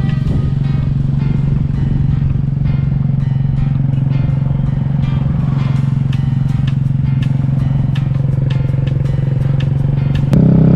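Motor scooter engine running steadily while riding, a constant low drone mixed with road and wind noise.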